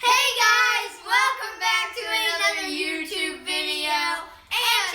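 A child singing in a high voice: about four drawn-out, sliding phrases with short breaks between them.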